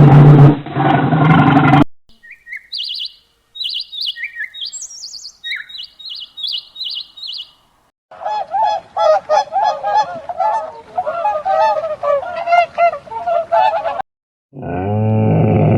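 A string of separate animal sounds: a loud, deep call cuts off about two seconds in, then a run of high, short bird chirps. From about eight seconds a flock of waterfowl honks rapidly over one another for some six seconds, and another deep call starts near the end.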